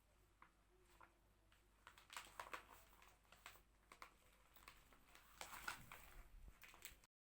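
Faint rustles and light clicks and knocks of things being handled and set down, close to near silence, cutting to dead silence just after seven seconds in.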